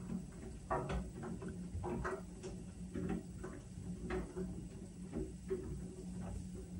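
Whirlpool washing machine running its Steam Refresh cycle: a steady low motor hum with irregular light clicks and knocks from the turning drum.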